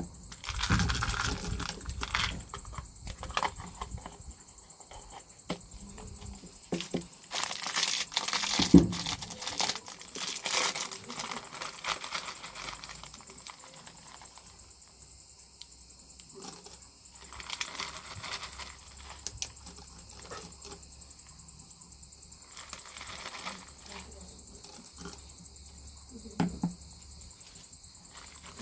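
Kitchen work: irregular clicks, taps and clatter of utensils and dishes, busiest about a third of the way in, over a steady high hiss.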